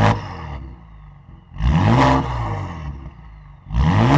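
Car engine revved three times, about two seconds apart, the pitch rising and falling with each blip over a steady idle.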